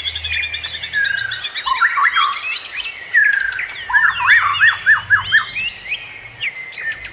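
Several birds singing and chirping together, with a run of about six quick looping notes near the middle. Under them runs a thin, steady high tone that stops about five seconds in.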